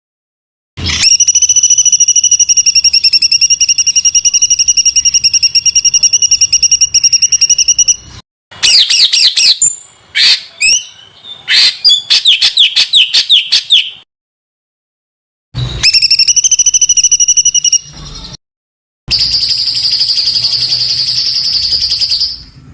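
Songbird singing 'tembakan' bursts: long, very fast rattling trills, then a run of quick falling notes, in several phrases separated by abrupt gaps.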